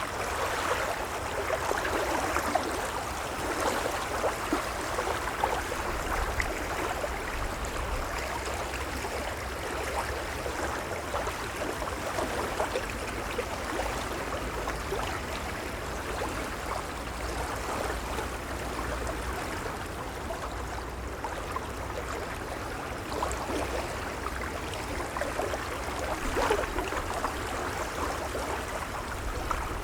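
Gentle waves lapping: a steady wash of water with a fine, splashy patter and a low rumble underneath, swelling a little now and then.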